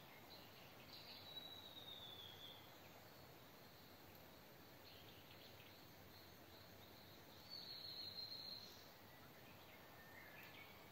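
Faint outdoor background hiss with two high, thin whistled calls from wild birds, each slightly falling and over a second long, about six seconds apart, and a shorter, lower call near the end.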